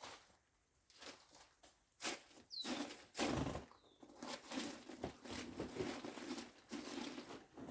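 Irregular scraping and knocking as a boat on a homemade wooden dolly is moved, its tail dragging on the ground, heavier from about two seconds in. A bird gives a few short falling chirps.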